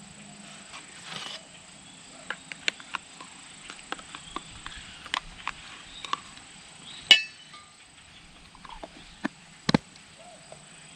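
Utensil and mixing bowl handling while butter is worked into flour for biscuit dough: scattered light clicks and knocks, one louder clink about seven seconds in that rings briefly, and a heavier knock near ten seconds.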